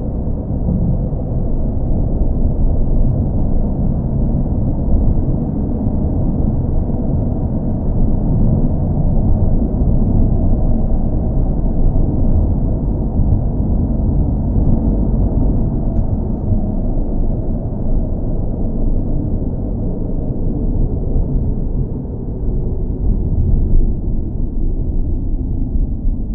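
Steady low rumble of a car engine running continuously, deep and muffled, with nothing above it but a slight wavering in level.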